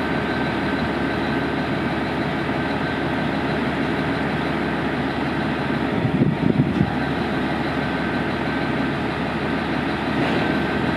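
ENR-1000 snow-removal maintenance vehicle's engine running steadily while its plow changes automatically from Russell-plow to rotary form, with a few clunks about six seconds in.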